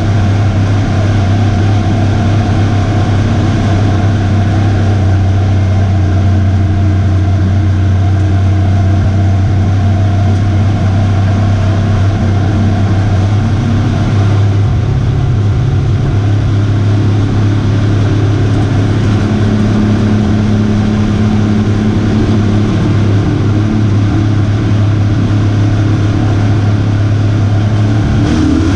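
Race truck's V8 engine running hard inside the cab, a loud steady drone that shifts slightly in pitch about halfway through.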